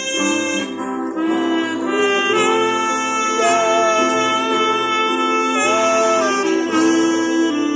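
Saxophone playing a melody of long held notes over a backing of sustained chords.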